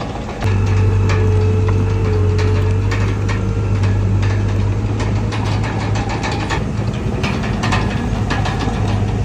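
Komatsu D31PX crawler bulldozer working: its diesel engine runs steadily and gets louder about half a second in, with irregular metallic clanking and rattling from the tracks and blade throughout.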